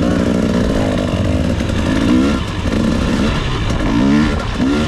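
Two-stroke dirt bike engine running, revved up in short rising blips about two seconds in and twice near the end.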